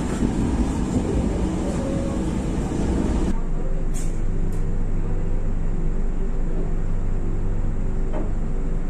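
Inside a moving train carriage: the rumble and rail clatter of the train rolling slowly through a station. A few seconds in, an abrupt change to a KAI diesel locomotive's engine running with a steady low hum as the locomotive edges closer during shunting, with a couple of sharp clicks just after the change.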